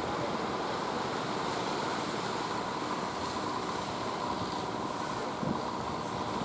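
Fishing boat's engine running steadily, with a faint steady whine, over surf and wind on the microphone; a brief thump about five seconds in.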